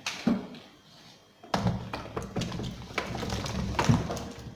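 Tomatoes being put into a basin of water and washed by hand: a knock near the start, then, from about a second and a half in, a run of dull thumps and knocks with the rustle of water being stirred.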